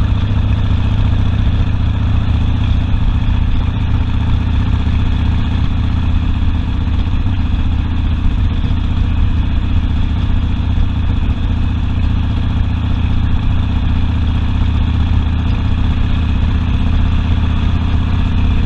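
Harley-Davidson Sportster V-twin engine running at a steady pitch, heard from the rider's seat, with no revving or gear changes.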